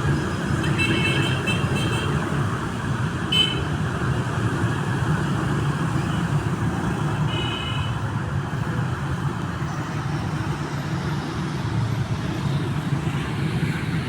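Steady rumble of road traffic, with a few short high-pitched chirps, near the start, about three seconds in and about seven seconds in.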